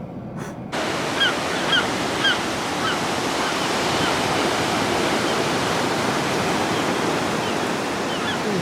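Ocean surf washing steadily, starting abruptly just under a second in, with short high bird calls repeating over it.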